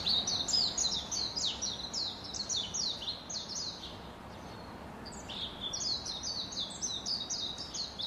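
A bird calling in a fast run of short, high chirps, each sliding down in pitch, about four a second. The run thins out for about two seconds in the middle, then picks up again.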